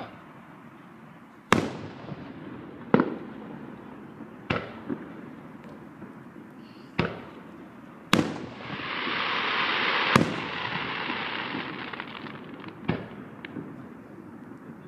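Aerial firework shells bursting: about eight sharp bangs at irregular gaps of one to three seconds, with a dense crackling hiss lasting a couple of seconds just past the middle.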